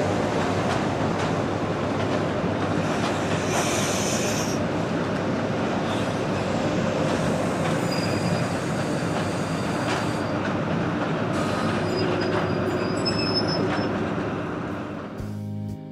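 Train running along the track: a steady rush of wheel and rail noise with faint high-pitched wheel squeals. It fades out near the end as music starts.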